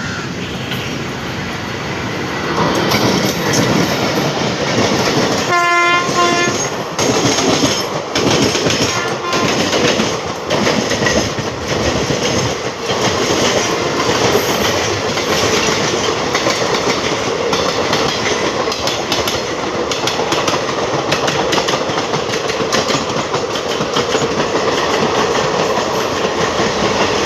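Express train running past close by. The rumble swells as it arrives, the locomotive horn gives a short blast about six seconds in, and then the wheels clickety-clack steadily over the rail joints as the coaches roll past.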